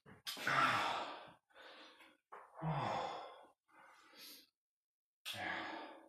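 A man breathing out hard in a string of heavy, sighing exhalations, about five of them, one near the middle voiced like a grunt. He is winded from the exertion of lifting dumbbells.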